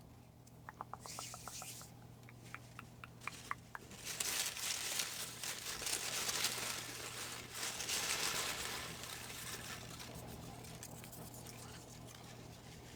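A quick run of small clicks, then paper rustling and crinkling, loudest in the middle and fading toward the end: slips of paper being rummaged through and unfolded.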